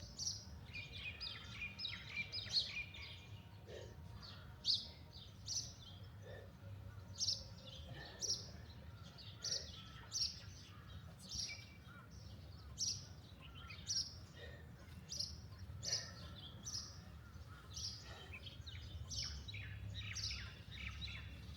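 Wild birds chirping: a busy chatter of high notes for the first few seconds, then a short high note repeated about once a second, over a steady low background rumble.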